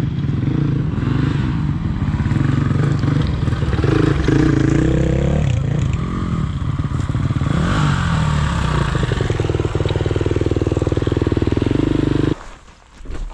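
Four-stroke dirt bike engine running close to the microphone, its pitch rising and falling with a few blips of the throttle. It cuts off suddenly near the end.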